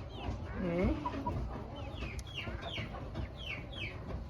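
Young poultry chicks peeping, a run of short, high, downward-sliding peeps at about three or four a second, with one lower call just under a second in.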